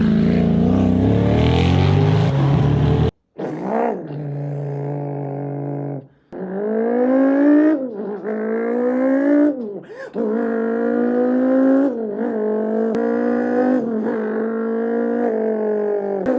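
A Koenigsegg Agera RS twin-turbo V8 engine sound for the first three seconds, then a man imitating it with his mouth. The imitation rises in pitch and drops back several times, like a car revving up through the gears.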